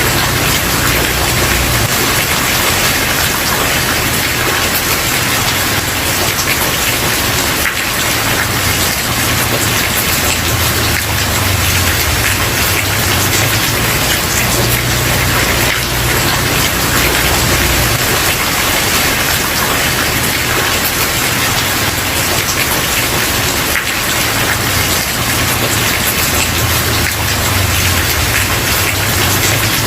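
Steady, dense rain falling on a wooden porch, with a low rumble swelling and fading underneath.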